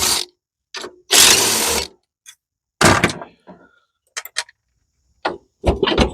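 Cordless mini impact wrench run in two short bursts on a bolt, followed by a few sharp metallic clicks and knocks of tools and parts.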